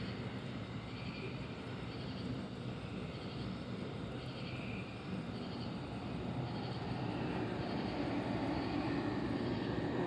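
Distant thunder rumbling, building louder through the second half, with a faint high chirp repeating a little more than once a second.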